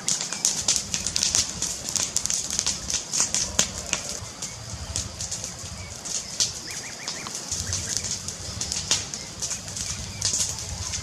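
Wood fire crackling in a fireplace: dense, irregular sharp pops and snaps over a steady hiss and a low rumble.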